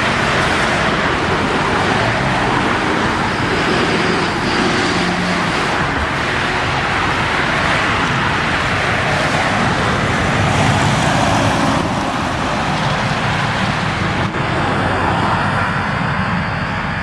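Steady road traffic noise: the tyres and engines of trucks and other vehicles driving past, with engine notes rising and falling as they go by.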